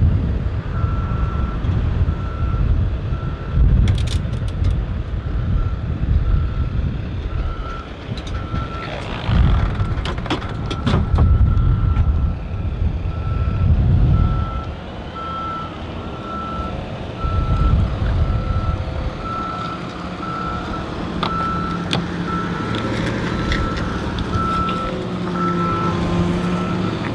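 Tow truck's backup alarm beeping steadily at one pitch, over the low rumble of the truck's engine, with a few sharp metallic knocks from the truck as the loaded car is repositioned on it.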